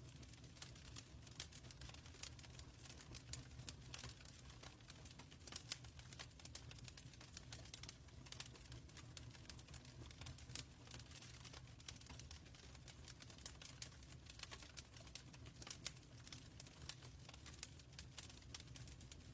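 Wood fire crackling in a fireplace: irregular, quick little pops and crackles over a low steady rumble.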